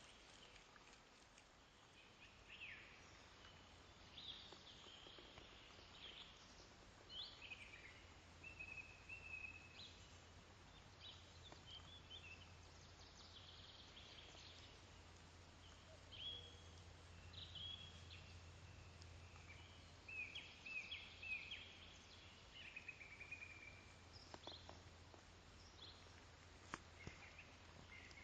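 Faint birdsong: many short chirps and whistled phrases that keep coming, over a steady low hum.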